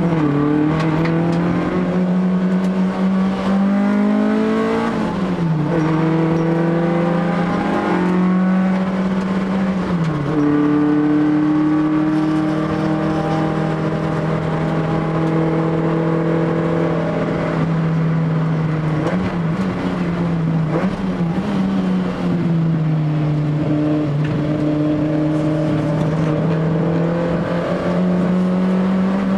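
Honda Civic EF3's ZC twin-cam four-cylinder, breathing through Solex 44 carburetors, driven hard on a circuit. The engine note climbs through the revs and falls off sharply at gear changes, about five and ten seconds in, then holds a long, fairly steady pitch before wavering and climbing again near the end.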